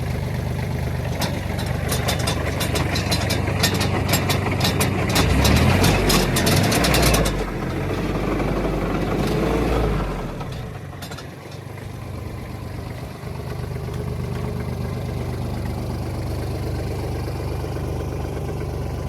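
Kubota KL340H tractor's diesel engine running, with a rapid clatter of sharp ticks over the first several seconds. It gets louder and deeper midway, drops off at about ten seconds, and settles back to a steady idle.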